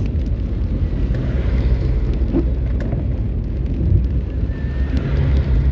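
Motor vehicle driving, a steady low rumble of engine and road noise with a few faint ticks.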